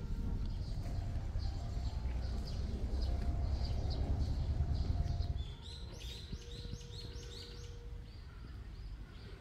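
Small birds chirping, with a quick run of rising high notes about six seconds in. A low rumble fills the first half and stops a little past halfway.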